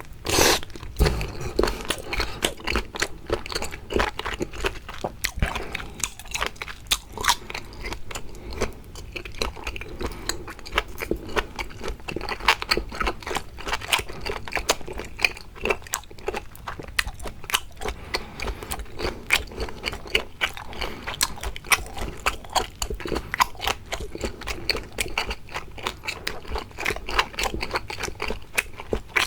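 Close-miked chewing and biting of raw seafood, a steady dense run of short clicks.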